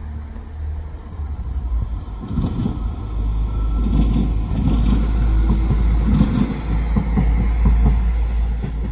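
West Midlands Railway diesel multiple unit passing at speed: a steady low rumble of engine and wheels, with rattling clatter over the rails growing louder from about two seconds in.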